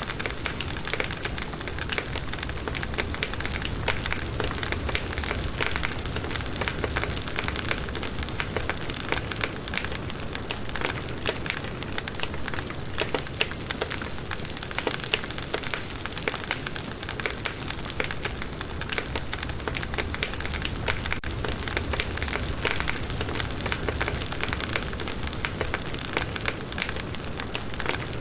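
Firewood burning in a campfire: a steady crackle of many small pops and snaps over a low rushing of flames.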